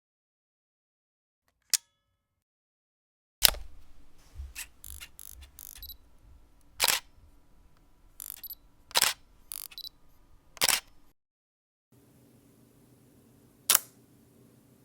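Camera shutters clicking, a string of separate single releases. One click comes near 2 s, then a quick cluster of clicks over a low hum until about 11 s, and one last click near the end.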